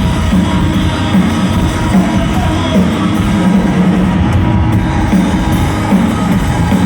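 Live rock band playing loud, distorted music, with a repeating low riff.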